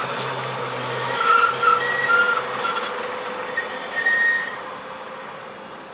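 Tram running past on the rails, its running noise fading as it moves away, with several short high-pitched wheel squeals about a second to four seconds in.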